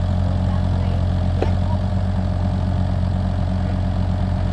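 Kubota U55-4 mini excavator's diesel engine running steadily at idle.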